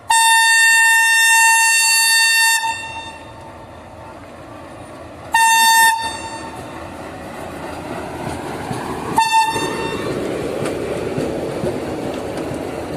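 Locomotive horn sounding three times: a long blast of about two and a half seconds, a shorter one, then a brief toot, while the rumble of the train grows louder as it draws near.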